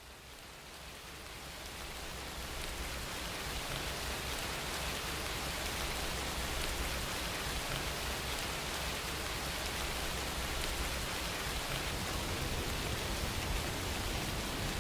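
Steady rain falling, an even hiss with a patter of drops, fading in over the first couple of seconds and then holding steady.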